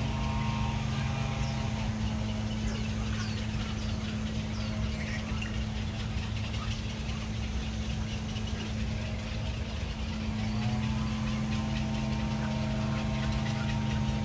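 A vehicle engine running with a steady low hum, its pitch rising about ten seconds in. Faint short bird chirps sound above it.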